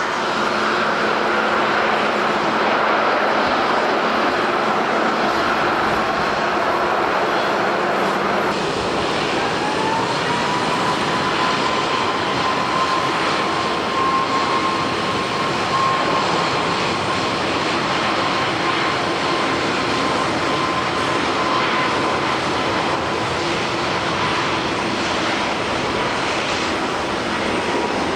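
Airbus A320neo-family jet airliners' engines over heavy rain and wind noise. About eight seconds in, the sound cuts to a second airliner whose engine whine rises and then holds steady as it spools up to takeoff power.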